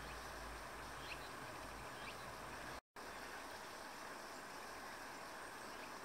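Faint, steady outdoor background hiss with a low rumble in the first half, and two or three brief, faint chirps of small birds in the first half. The sound drops out completely for a moment just before halfway.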